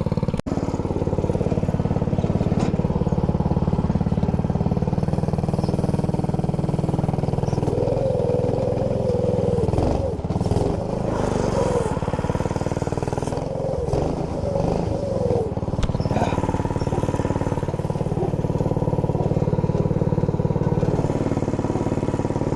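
Minibike's 212 cc single-cylinder engine running through a new center-exit exhaust pipe, steady at first, its pitch wavering up and down in the middle.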